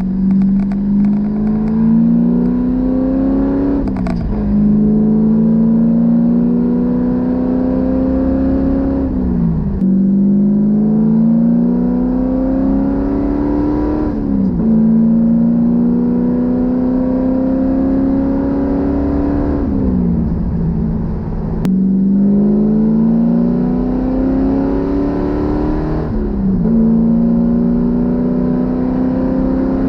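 Rover 3.5-litre V8 in a Triumph TR7 running loud, its pitch climbing slowly for several seconds and then dropping quickly, about six times over, with a couple of short clicks.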